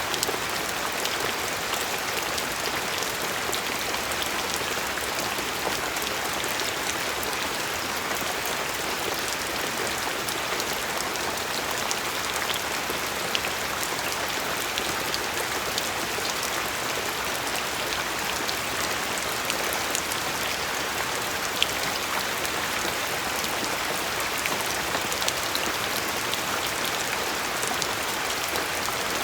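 Steady rain falling, an even hiss of many drops with scattered individual drops ticking sharply on a surface.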